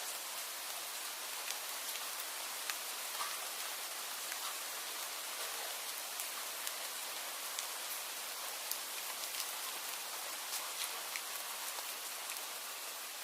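Steady rain falling, an even hiss with many scattered small drop ticks on a surface.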